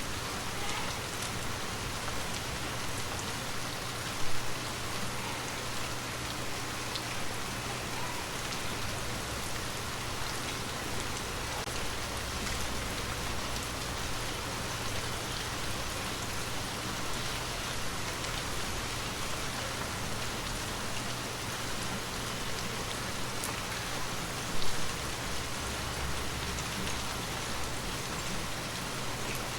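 Gentle, steady rain falling and pattering on surfaces, with two louder taps standing out: one about four seconds in and one near the end.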